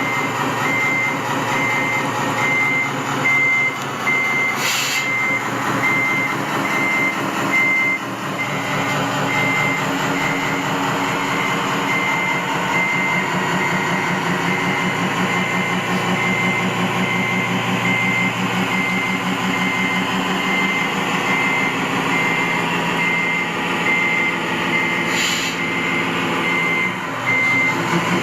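Truck reversing alarm beeping steadily, about two beeps a second, over a running engine, with two brief clicks about five seconds in and near the end.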